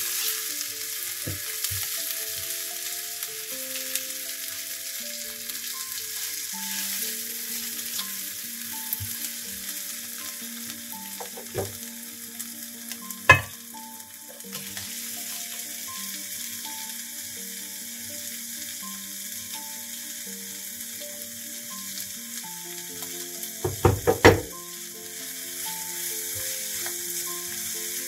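Sliced onion, carrot and tomato sizzling in butter in a frying pan and being stirred with a silicone spatula, with shredded cabbage tipped in about halfway through. A few sharp knocks stand out, and a quick cluster of them near the end is the loudest sound.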